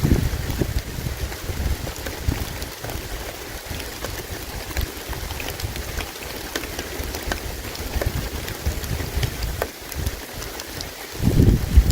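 Campfire crackling with scattered sharp pops and ticks over a steady hiss of flowing river water. A low rumble is heavy at the start, eases, and swells again near the end.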